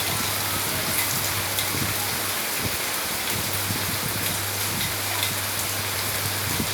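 Heavy rain falling steadily, with scattered individual drops hitting surfaces.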